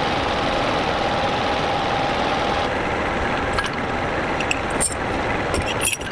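Small engine running at a steady speed with a steady whine, with a few sharp clicks near the end.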